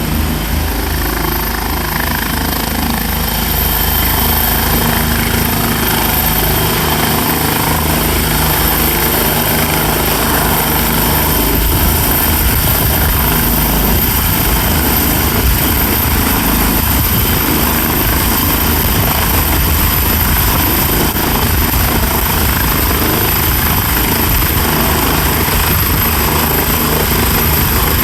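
Bell turbine helicopter running steadily, its rotor and engine noise level and unbroken, with a steady high turbine whine over it.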